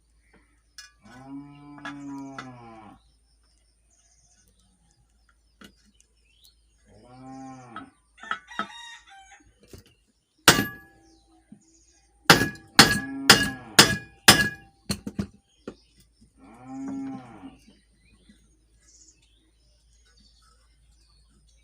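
A cow mooing three times: a drawn-out low moo about a second in, a shorter one around seven seconds and another around sixteen seconds. Between them come a single sharp metallic knock about ten seconds in, then a quick run of about seven more knocks.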